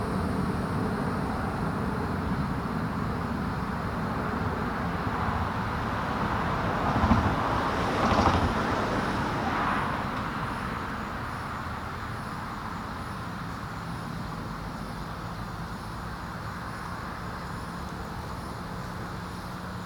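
Outdoor road-traffic noise: a vehicle passes, swelling about seven seconds in and fading by about ten seconds, leaving a lower, steady background hum.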